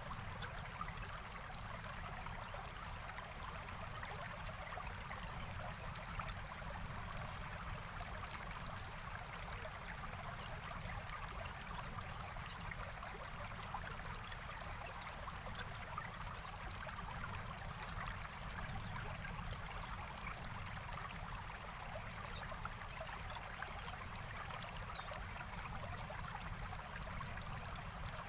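Forest stream flowing and trickling steadily, with a few faint high bird chirps about halfway through and again near the end.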